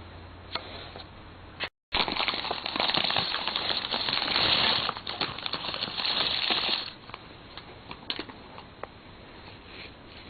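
Plastic candy packaging crinkling and rustling as it is handled, a dense crackle from about two seconds in until about seven seconds, then only a few faint clicks.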